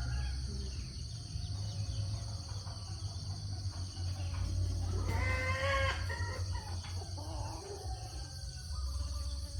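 Outdoor rural ambience: a steady high insect chirring runs under a low rumble, and about five seconds in a farm animal gives a single call about a second long.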